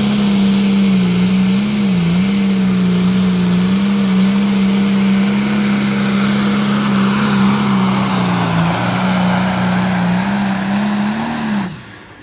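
Pulling truck or tractor engine at full throttle under load, holding a steady high pitch as it drags the sled, with a brief dip about two seconds in. Near the end it rises for a moment and then cuts off abruptly as the engine is shut down.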